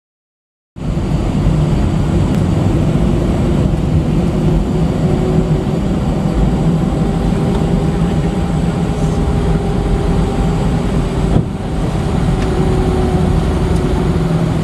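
Jet airliner's engines running steadily, a loud even rumble with a few held humming tones; the sound cuts in abruptly just under a second in.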